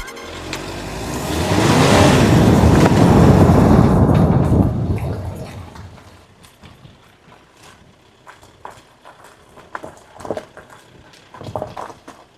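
A vehicle passing by: its noise swells over about two seconds and fades away by about five seconds in. Faint scattered clicks and knocks follow.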